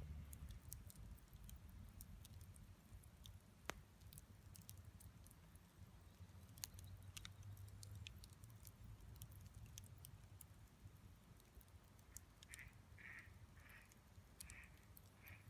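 Faint crackling of a wood campfire: scattered sharp pops and clicks over a low rumble, with two louder pops. Near the end come five short, faint sounds, evenly spaced.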